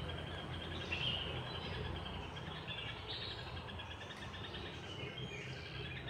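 Birds chirping and calling in short repeated notes, some sweeping down in pitch, over a steady low outdoor rumble.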